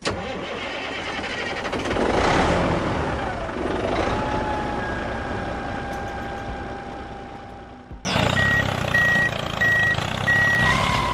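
Heavy vehicle engine running with a steady rumble, then about eight seconds in a reversing alarm starts, beeping at an even pace over the engine.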